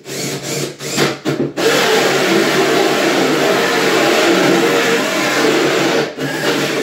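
Electric drill: a few short trigger bursts, then running steadily under load for about five seconds as it bores a hole, stopping just before the end.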